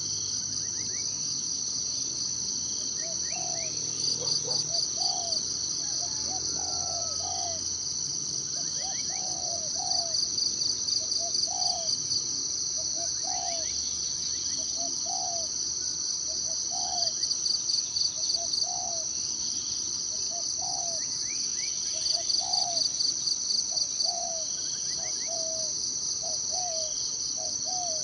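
Forest ambience: insects trill steadily in a high band, swelling into louder pulsing spells every five or six seconds. Under it a bird repeats a short low note about once a second, with a few faint higher chirps from other birds.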